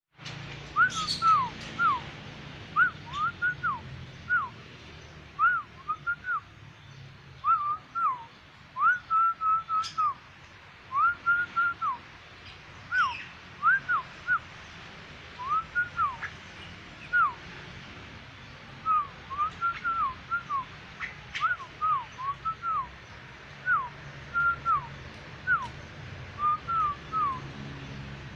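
Jalak putih, a white Indonesian starling, singing vigorously: a long run of clear, short whistled notes that each rise and fall in pitch, often two or three in quick succession. A steady low hum runs beneath.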